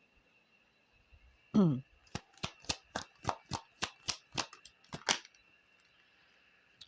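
Oracle cards being handled in a shuffle: about a dozen sharp clicks in quick succession, roughly four a second, after a brief murmur from the reader.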